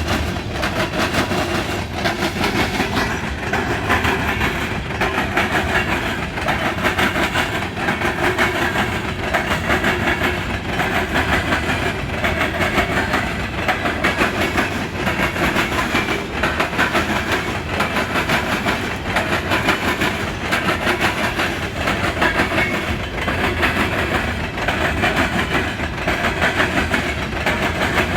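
Empty coal hopper cars of a CSX freight train rolling over a railroad diamond crossing, their wheels hammering the crossing frogs in a fast, continuous rhythmic clatter.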